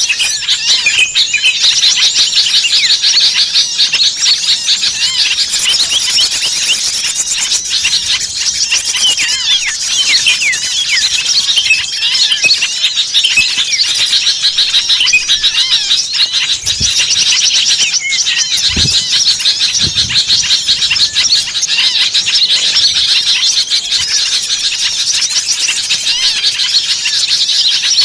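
A dense, noisy chorus of many small birds chirping and twittering at once, a mixed bird-lure (pikat) recording made to draw small birds in. A few brief low thumps come about two-thirds of the way through.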